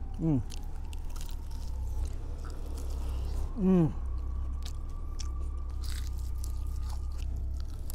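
Crispy fried chicken being chewed, with a fresh crunching bite taken near the end. Two short hums of approval fall in pitch, one right at the start and one just before halfway, over a steady low hum.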